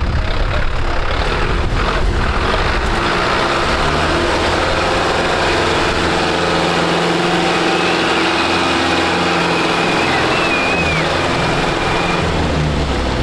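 Tractor diesel engine running loudly and steadily, its pitch shifting a little up and down with small changes in engine speed.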